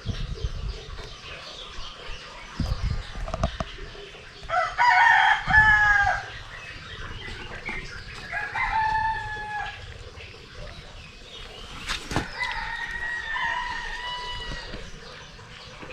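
A rooster crowing three times, each call long and pitched and holding its note before breaking off, with a few short knocks between them.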